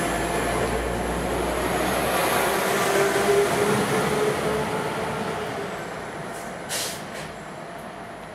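West Midlands Railway class 172 diesel multiple unit running past and pulling away, a steady rumble of engine and wheels that fades as it moves off. A short high-pitched burst of sound comes near the end.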